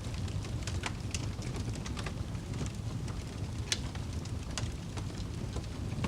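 Campfire burning, with a steady low rumble of flames and scattered crackles and pops at irregular intervals, one sharper pop a little past halfway.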